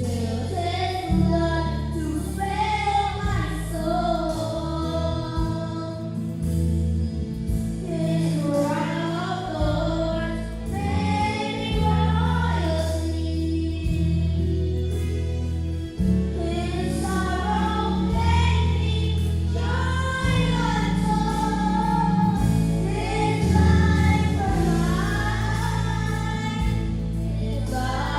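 Gospel song with voices singing over a held, steady bass accompaniment.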